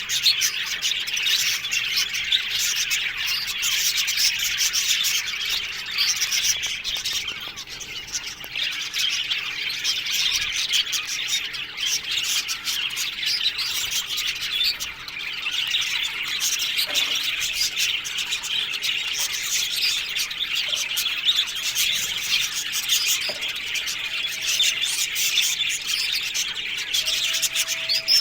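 A colony of budgerigars chattering and chirping continuously, many birds calling over one another in a dense, steady warble.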